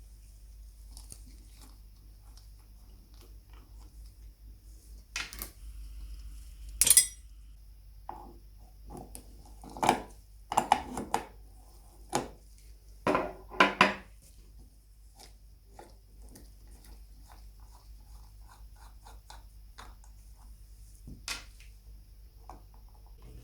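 Metal parts of an old lamp being handled and set down, making clinks and knocks in a few clusters. The loudest is a ringing clink about seven seconds in, with a busy run of knocks between about ten and fourteen seconds.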